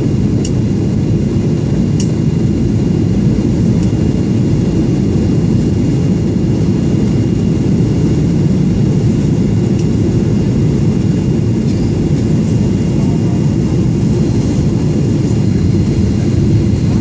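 Steady cabin noise inside a Boeing 737-800 in flight: an even low rumble of engines and airflow, with a few faint clicks.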